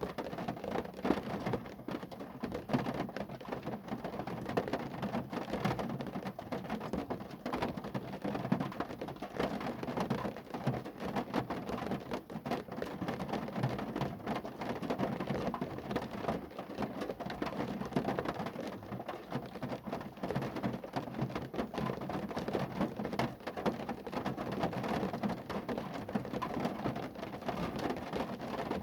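Steady rain falling on a car, a dense continuous patter of countless drops hitting the car's body.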